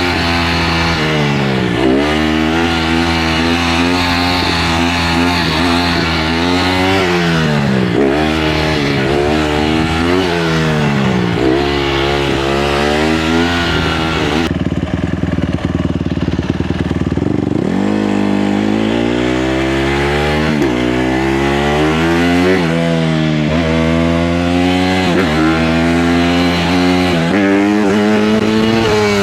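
150R dirt bike engine revving up and falling back over and over, about every second or two, as it is ridden. About halfway through it settles to a low idle for a few seconds, then picks up and revs again.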